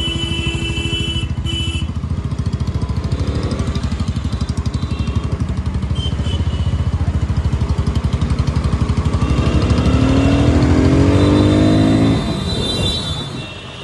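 Motorcycle engine running under way, its exhaust pulsing steadily. About ten seconds in it revs up with a rising pitch, then drops off sharply as the throttle closes near the end.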